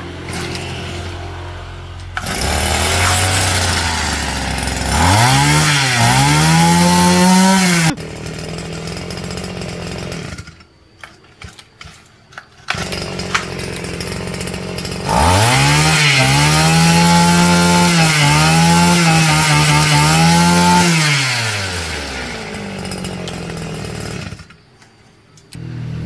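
Husqvarna 365 two-stroke chainsaw engine idling, then revving up sharply for a few seconds and dropping back before it stops. It starts again, revs and holds high for about six seconds, falls back to idle and cuts out shortly before the end.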